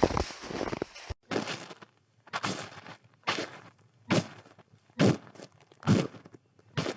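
Footsteps crunching through snow. After a dense, irregular patch of crunching in the first second, they settle into a steady walking pace of about one step a second.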